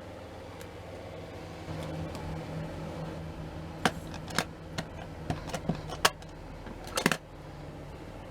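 About ten sharp taps and knocks of craft materials being handled and pressed down on a work table, bunched between about four and seven seconds in, over a low steady hum.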